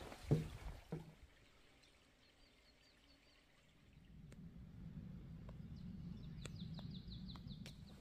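A small bird gives a quick series of about eight high chirps near the end, over a faint low steady rumble. Two sharp thumps come in the first second.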